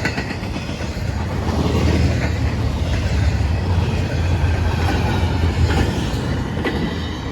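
Freight cars of a CSX intermodal train rolling steadily past: a continuous rumble of steel wheels on rail with a few faint clicks over the joints.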